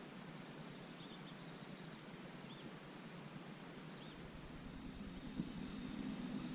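A few faint, short high chirps of a small bird, with a brief quick rattle, over a steady outdoor hiss. From about two-thirds of the way in, a low rushing noise grows louder, with a single click.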